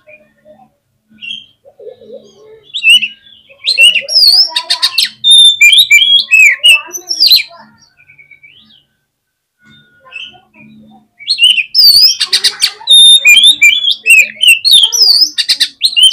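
Oriental magpie-robin (kacer) singing in two loud bursts of a few seconds each, with a short pause between. The song is fast whistled sweeps and trills mixed with rapid rattling clicks.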